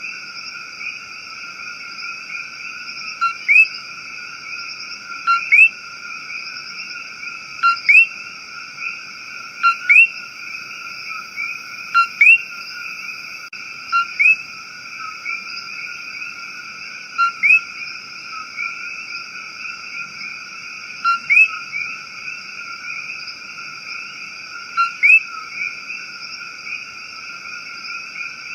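Rainforest chorus of calling frogs and insects: a steady, high, layered trilling hum with a short, loud downward-sliding chirp, often doubled, every two to four seconds.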